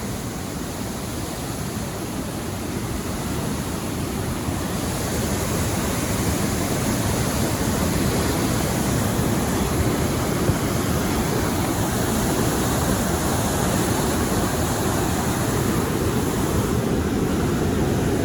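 Waterfall rushing steadily, a little louder from about four seconds in.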